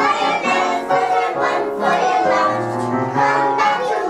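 A group of young children singing a song together with instrumental accompaniment.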